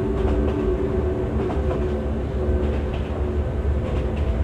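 Model train running on its track, heard from a camera riding on the train: a steady electric motor hum over a low wheel rumble, with occasional faint clicks from the rails.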